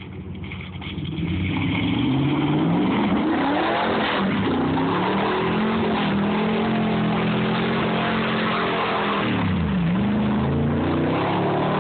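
Ford's engine revving hard under load as it powers through deep mud, its pitch climbing over the first few seconds and holding high, then dropping sharply for a moment near the end before climbing again.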